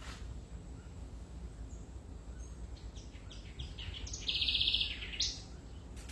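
A bird calling: a run of short, high chirps about halfway through, building into a rapid trill that stops shortly before the end, over a low steady background rumble.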